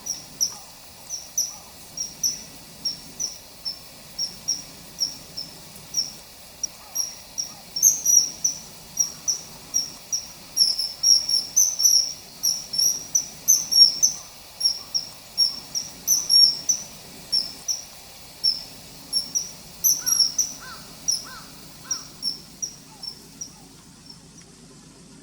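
Common kingfisher calling: a long series of short, high, piercing notes, about two to three a second, tailing off near the end. A few lower notes come in briefly partway through.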